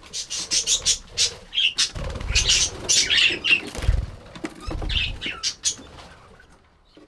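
Budgerigars chattering with rapid, high chirps, with a few flurries of wing flaps about two, four and five seconds in.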